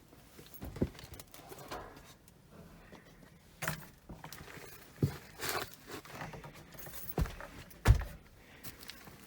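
Scattered knocks, bumps and rustling of a person clambering through a cramped space to reach a furnace, about half a dozen separate bumps with the loudest near the end.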